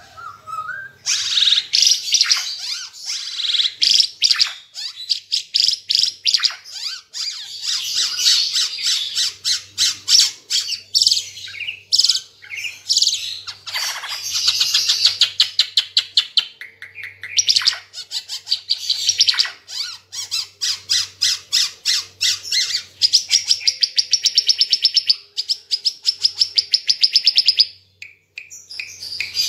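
Ara Timor songbird singing without pause: long runs of rapid, high chirps and trills, breaking off briefly near the end.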